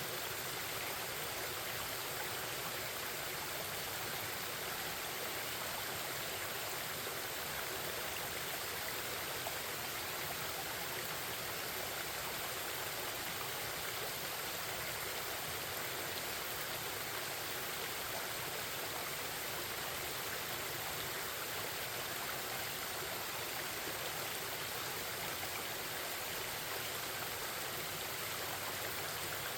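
Forest stream babbling, a steady, even rush of flowing water.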